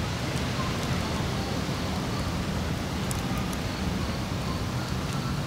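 Steady rumbling noise with a few faint clicks, like wind buffeting the microphone outdoors.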